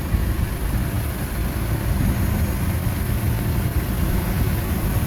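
Heavy diesel earthmoving machine engine running steadily.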